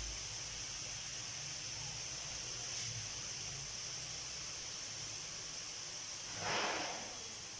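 Squid cooking in a hot pan, sizzling with a steady hiss. About six and a half seconds in there is a short, louder rush of noise.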